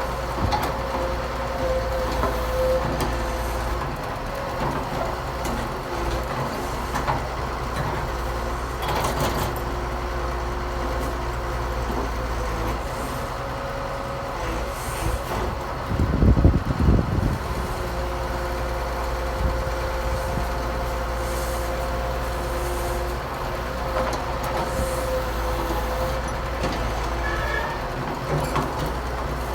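Heavy diesel construction machinery, excavators and dump trucks, running steadily with a low engine rumble and a steady whine, with a louder rumbling surge about halfway through.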